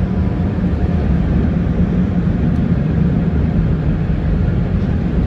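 Automatic tunnel car wash machinery running, heard from inside the car's cabin: a steady low rumble with a constant hum.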